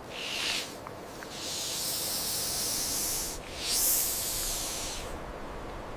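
A snake hissing three times: a short hiss, a long drawn-out one, then a third after a brief break.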